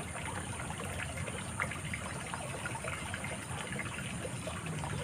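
Small forest stream flowing, the water trickling and babbling steadily with many small plinks.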